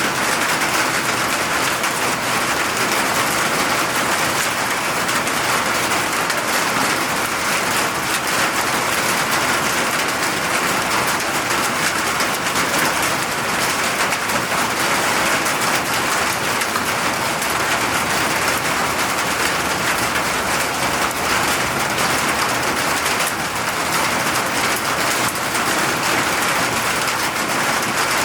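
Steady rain falling, a constant even hiss with a dense patter of drops striking surfaces.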